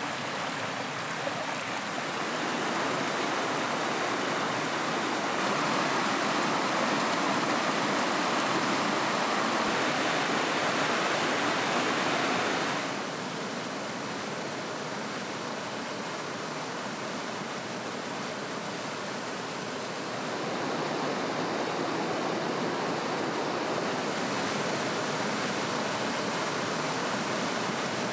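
Steady rushing of running water, a stream or waterfall, as an even hiss without distinct events. It gets louder a few seconds in, drops suddenly about halfway through, and rises again later.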